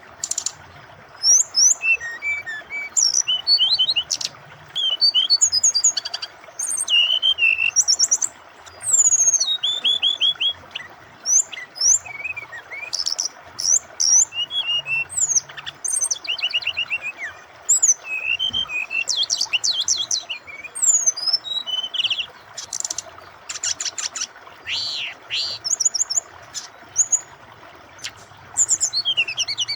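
Brown-chested jungle flycatcher (SRDC) singing a long run of rapid, varied phrases of whistles, trills and chips, with short pauses between bursts. A steady sound of flowing water runs underneath.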